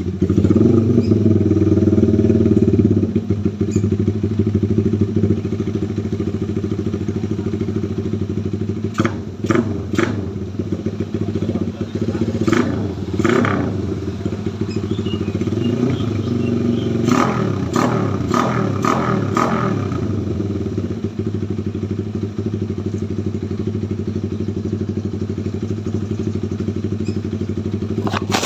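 Honda Tiger motorcycle's swapped-in K15 DOHC single-cylinder engine running steadily at idle, a little louder for the first few seconds. A few brief sharp noises come in several times in the middle.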